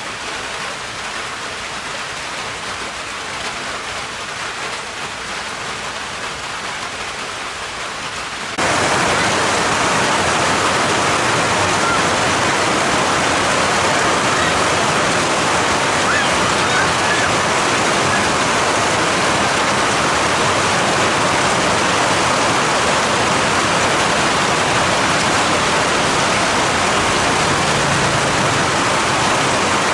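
Steady rushing noise like falling or running water, jumping suddenly louder about eight and a half seconds in and then holding steady.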